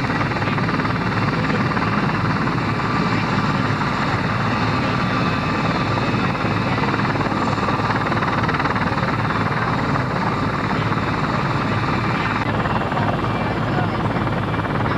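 Military helicopter running steadily and loudly, a dense rotor-and-turbine noise with no pause; its sound shifts slightly about twelve seconds in.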